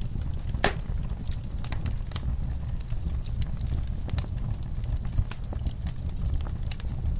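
Wood fire burning in a fireplace: a steady low rumble of flames with frequent irregular crackles and pops, one louder pop about half a second in.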